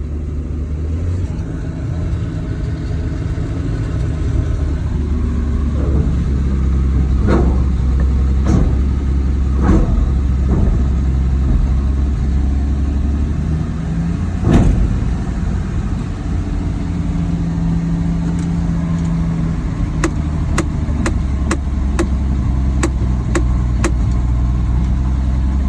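Old Ford F-series pickup's engine running steadily just after being brought back to life, with its oil pressure up. Sharp clicks or knocks sound over the engine here and there, the loudest about halfway through, and a quick series of evenly spaced ticks comes near the end.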